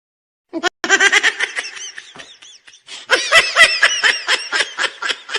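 A high-pitched, frantic laugh in rapid pulses, starting about half a second in and growing louder about three seconds in.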